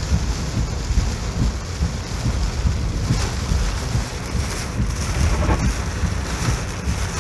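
Typhoon wind buffeting the microphone in gusts over a steady hiss of heavy rain.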